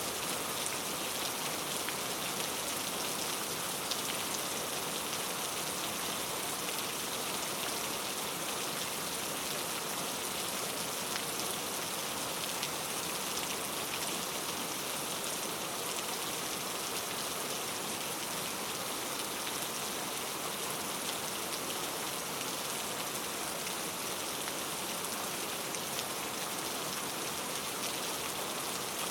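Steady rain falling in a rainforest, an even hiss of rain with scattered drop ticks on foliage.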